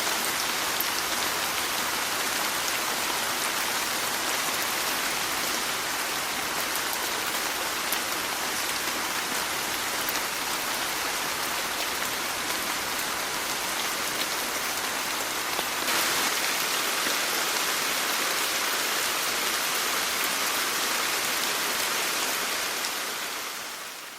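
Steady rain falling, an even hiss of many drops, a little louder from about two thirds of the way in, then fading out at the end.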